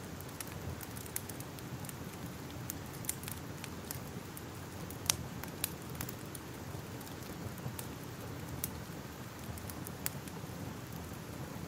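Fire crackling: a steady low rumble with irregular sharp pops and snaps, the loudest about five seconds in and again near ten seconds.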